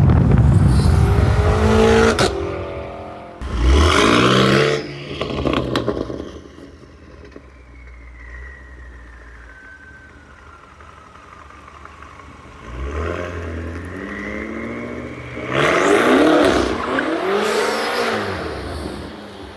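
Straight-piped BMW M5 Competition's twin-turbo V8, with catless downpipes, accelerating and revving in loud bursts: at the start, around four seconds in, and again about sixteen seconds in, with the engine pitch sweeping up and down. It is quieter in between.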